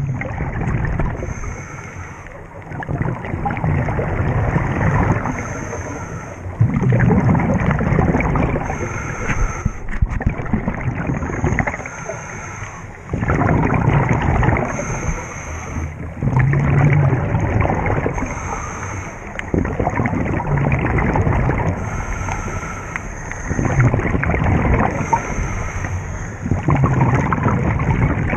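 Scuba diver breathing through a regulator underwater: a hissing inhale alternates with rumbling, gurgling bursts of exhaled bubbles, the cycle repeating about every three to four seconds.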